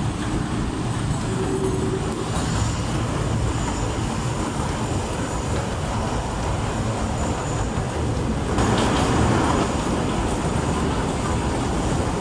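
Kurobe Gorge Railway narrow-gauge trolley train running along the track, heard from inside the car as a steady rumble of wheels on rails. It gets louder for about a second roughly two-thirds of the way through.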